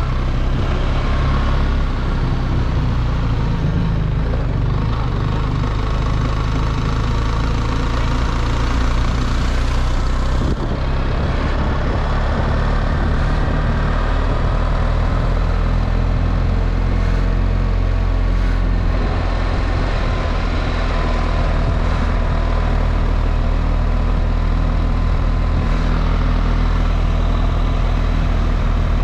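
BMW R1300 GS's 1300 cc boxer-twin engine running at a steady, even pace while the bike is ridden, with a constant rushing noise over it.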